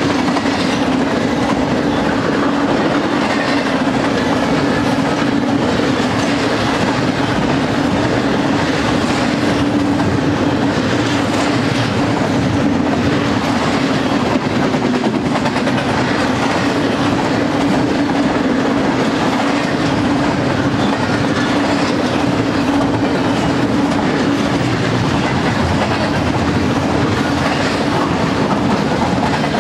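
Double-stack intermodal well cars of a BNSF container train rolling past close by: steady, loud wheel-on-rail noise with a low hum running through it.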